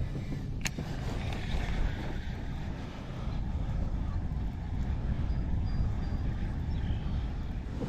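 Steady wind rumble on the microphone over water rushing past a kayak in a strong tidal current, with one sharp click less than a second in.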